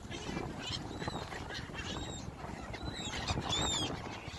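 Gulls calling: a run of short, high calls with sliding pitch, overlapping and busiest about three seconds in, over a steady low background rumble.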